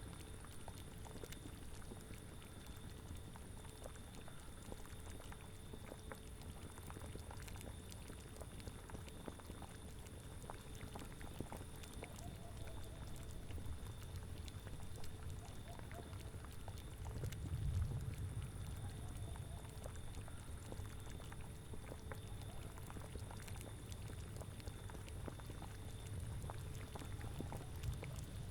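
Cauldron of liquid boiling, a steady bubbling with many small pops over a low rumble. The rumble swells louder about two-thirds of the way through.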